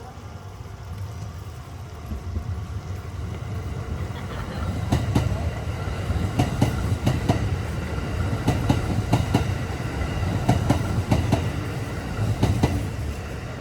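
Kintetsu 8A series electric train passing: a low rumble builds, then from about five seconds in the wheels click over the rail joints in an uneven run of sharp clacks as the cars go by, easing off near the end.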